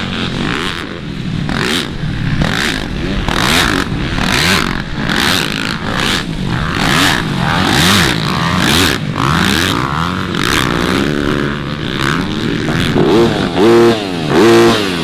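Several motocross dirt bikes racing, their engines revving up and down as they go round the track. Near the end one bike close by revs hard twice.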